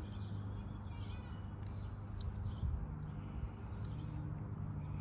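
Small birds chirping in short repeated notes, over a steady low rumble.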